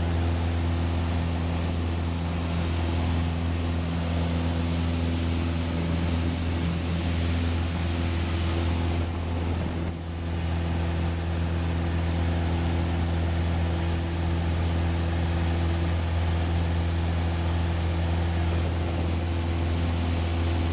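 Light single-engine piston aircraft's engine and propeller droning steadily in flight, a low, even hum with hiss above it, dipping briefly about halfway through.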